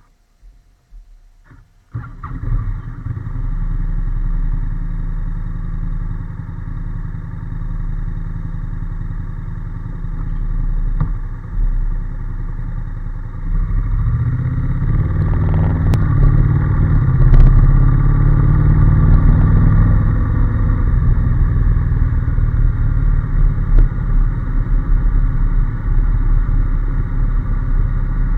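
Honda NC750S parallel-twin engine catching about two seconds in and idling steadily, then running louder from about halfway, its pitch rising and falling.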